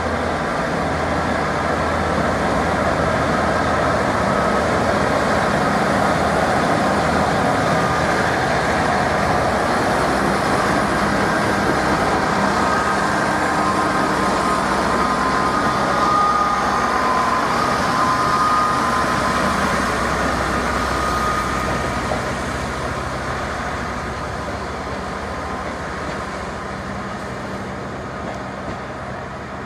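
A train running slowly past, its engine humming low under steady running noise, with thin high squeals in the middle, likely from the wheels. It fades away over the last several seconds.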